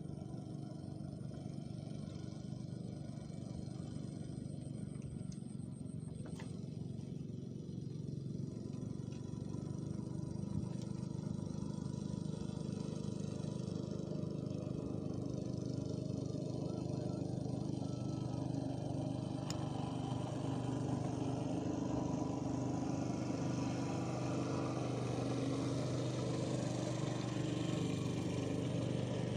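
An engine running steadily, growing louder over the second half.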